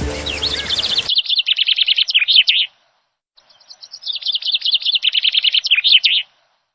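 A songbird singing long phrases of rapid, high chirps, two bursts of several seconds each with a short pause between. Background music plays under it and stops abruptly about a second in.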